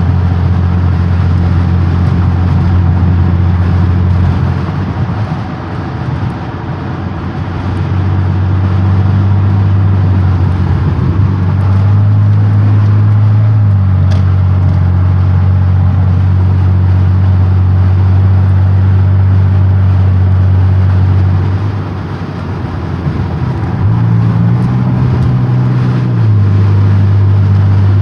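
Supercharged 3.8-litre 3800 V6 (L67) of a Chevrolet Impala, heard from inside the cabin at highway cruise: a steady low engine drone over tyre and road noise. It eases off twice and its pitch steps up and back down a couple of times as the throttle changes.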